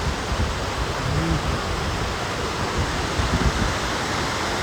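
Steady rush of a waterfall's falling water, with uneven low wind rumble on the microphone.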